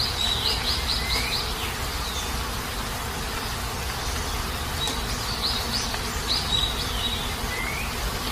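Heavy rain falling steadily. Over it a bird gives a short run of quick, high chirping notes twice, at the start and again about five seconds in, each run ending with a rising note.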